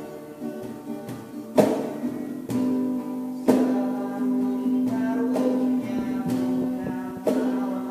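Acoustic guitar strumming chords, struck every second or two, over a sustained low note.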